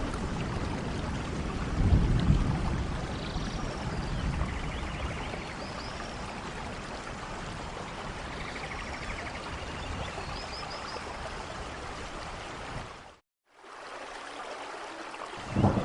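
Steady rain falling in a forest, with low thunder rumbling about two seconds in and again near the end. Faint high chirps come through now and then, and the sound cuts out completely for a moment about thirteen seconds in.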